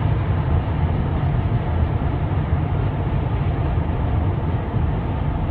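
Steady road and engine drone of a moving car, heard from inside, with most of its weight in a low rumble.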